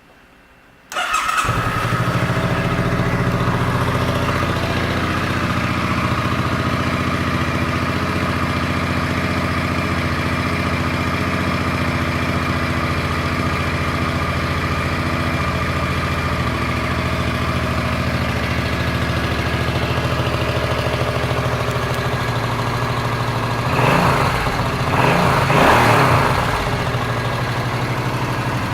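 2005 Suzuki M50 Boulevard's 805 cc V-twin engine starting about a second in, then idling steadily. Near the end it is revved a few times before stopping.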